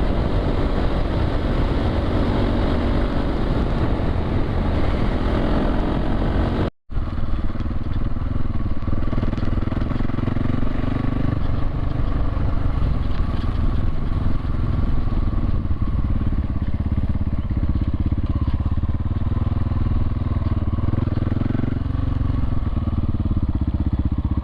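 Dirt bike engine running at a steady cruise on a dirt road, heard from on the bike with wind and road noise. The sound cuts out for an instant about a quarter of the way in, after which the engine note is stronger and its pitch rises and falls a little a few times.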